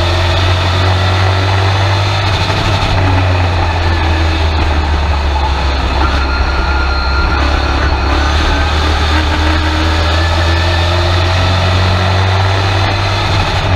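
Race truck engine heard from inside the cab under racing load, running loud and steady over a heavy low rumble, its pitch rising and falling as the driver goes on and off the throttle through the corners.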